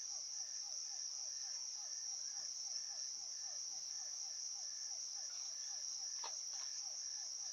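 Chorus of night insects, mostly crickets: a steady high trill, with a lower call of short falling chirps repeated about four times a second and a fainter pulse about twice a second. A single click comes about six seconds in.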